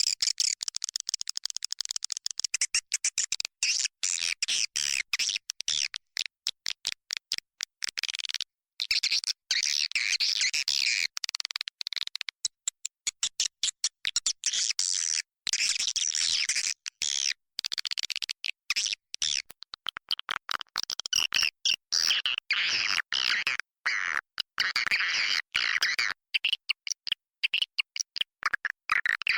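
Swiftlet call recording: a dense chorus of many swiftlets twittering and chirping, broken by rapid short gaps throughout. It is the kind of call sound played in swiftlet houses to lure the birds in to nest.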